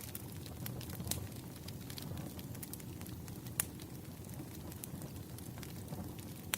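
Bonfire burning: a steady low rumble of flames with irregular sharp crackles and pops from the burning wood, one louder pop a little past halfway.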